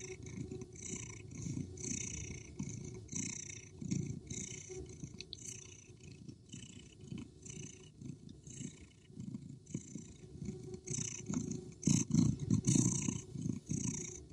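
Domestic cat purring: a low, steady rumble that swells and fades in a regular rhythm, louder in the last few seconds.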